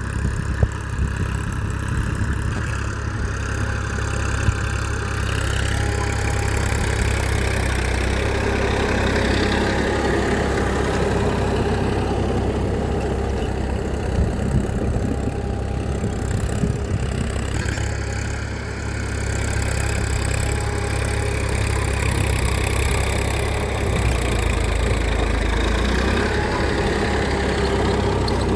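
An engine running steadily, like idling, with a constant low rumble throughout.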